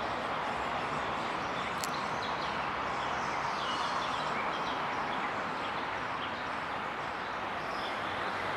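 Steady rushing background noise, like passing traffic, with small birds chirping faintly through it. A single sharp click about two seconds in.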